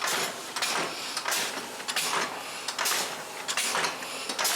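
Homemade air-powered locomotive running slowly on rails, its air engine exhausting in regular hissing puffs about one and a half times a second.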